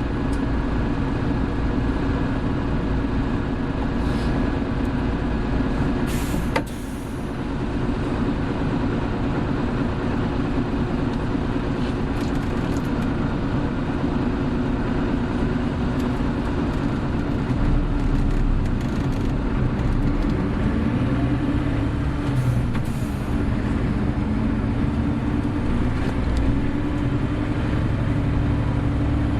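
Hino Blue Ribbon City Hybrid city bus (BJG-HU8JLFP) heard from inside while under way: its diesel engine pulls steadily with a thin high whine over it. About six and a half seconds in there is a click and a brief drop in engine sound, like a gear change. Later the engine pitch rises and falls a couple of times as the bus drives on.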